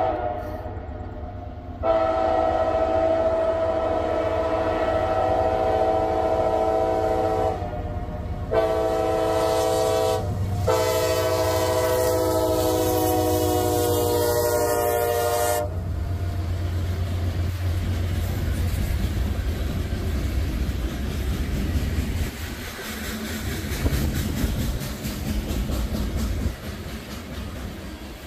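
Freight train's diesel locomotive air horn sounding a chord of several tones in the grade-crossing pattern: the end of one long blast, another long blast, a short one about 8 seconds in, then a final long blast that stops about 15 seconds in. Then the locomotive's diesel engine passes and the freight cars roll by, wheels clacking over the rail joints.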